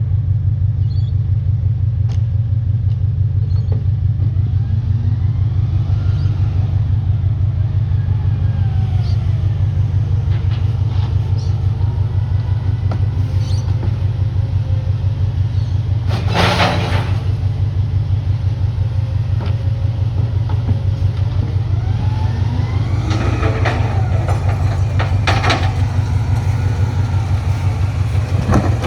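Garbage truck's diesel engine running with a steady, heavy low rumble. Rising and falling whines come now and then, a loud clatter about halfway through, and a few knocks near the end.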